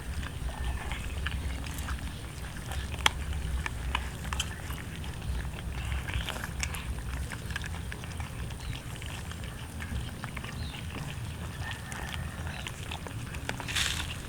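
Cats chewing and crunching roast chicken: irregular crisp clicks and smacks, one sharper crack about three seconds in, over a steady low rumble.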